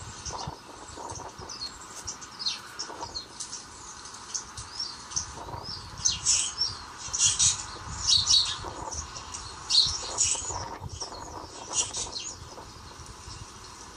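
Small birds chirping: many short, high calls from several birds, busiest and loudest from about six seconds in.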